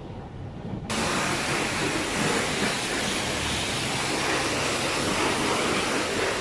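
Car wash equipment switching on with a sudden loud rushing hiss about a second in, then running steadily.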